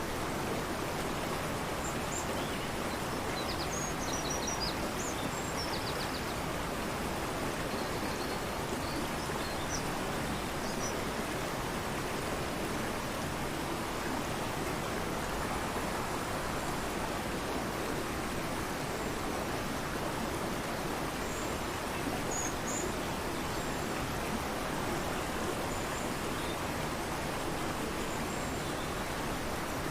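Fast-flowing mountain river rushing steadily. Faint, short, high bird chirps come now and then, mostly in the first third and again about two-thirds of the way through.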